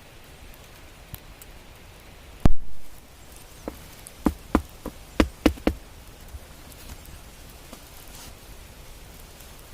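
One loud sharp knock about two and a half seconds in, then a quick run of about eight lighter knocks or snaps over two seconds, over a steady faint hiss.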